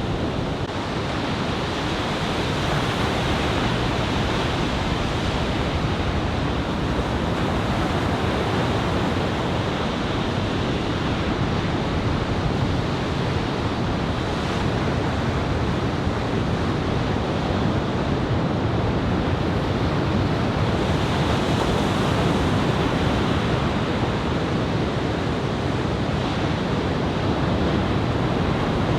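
Ocean surf: waves breaking in a steady, continuous rush, with wind on the microphone.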